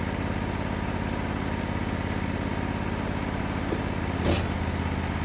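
Portable sawmill's engine idling steadily, with a brief knock about four seconds in.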